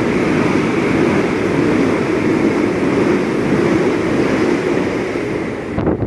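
Train running past at close range: a loud, steady rumble of wheels and traction that cuts off abruptly near the end, with a couple of sharp clicks.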